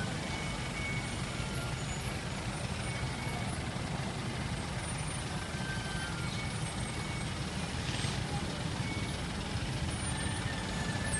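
Mitsubishi Fuso heavy truck's diesel engine running steadily with a low rumble, the truck stuck on a slope it is too weak or too loaded to climb. There is a short hiss about eight seconds in.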